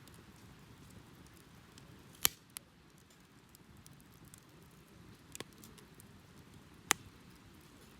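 Wood fire crackling: faint ticks over a low steady rush of flame, with a few sharp pops, the loudest about two and seven seconds in.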